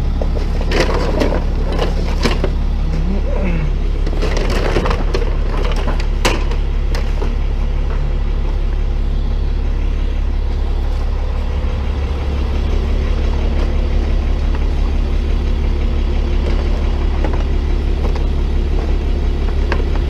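Tow truck engine running steadily, its note shifting about twelve seconds in, while scrap car parts such as plastic bumpers and panels clatter and crack as they are thrown into a trash can, mostly in the first seven seconds.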